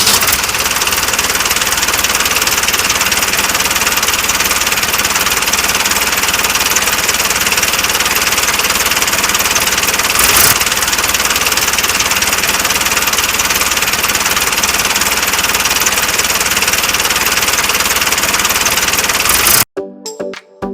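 The small motor and gearbox of a DIY model tractor running steadily under power, a loud, even mechanical whirr. It cuts off abruptly near the end.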